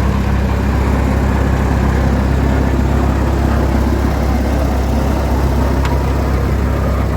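Tractor engine running steadily at low revs, a loud, even low drone with no change in speed.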